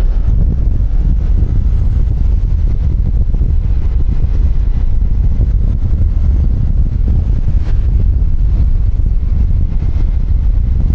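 Wind buffeting a helmet-mounted microphone on a moving QJMotor Fortress 160 scooter, over the scooter's engine and road noise. A steady, heavy low rumble with no letup.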